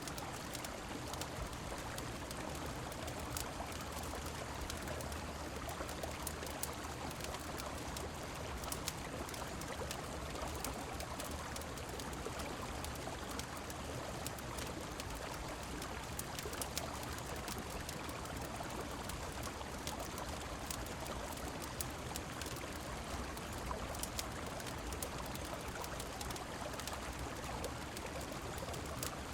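Steady rush of a flowing river mixed with rain, with many small sharp crackles of a wood fire scattered through it.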